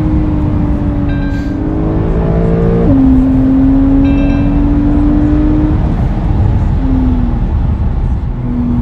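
Porsche 992 flat-six engine accelerating hard: the pitch climbs steadily, drops sharply at an upshift about three seconds in, climbs again through the next gear, then eases off about six seconds in.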